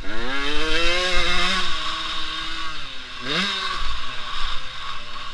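Motocross bike engine heard from the rider's helmet, revving up in pitch as the bike accelerates, holding, then easing off about two seconds in. A quick, sharp rev just past three seconds drops back to a steady lower note.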